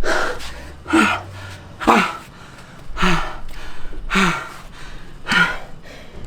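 A man's heavy panting after squats: short, breathy gasps with a falling groan in each exhalation, about one a second.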